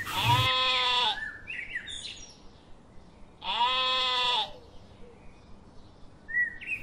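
A sheep bleating twice, two drawn-out calls of about a second each, the second about three seconds after the first.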